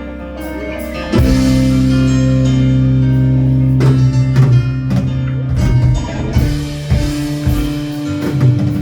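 Live prog rock band playing, recorded in the room: keyboards hold chords, then about a second in the full band comes in loudly on a held chord with guitar and bass, and the drums start a beat in the second half.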